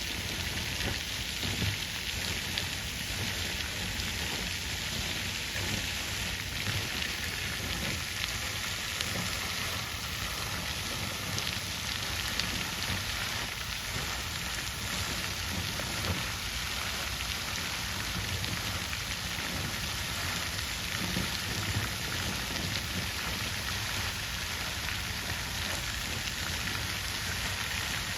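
Water fountain splashing steadily, an even rush of falling water with no breaks.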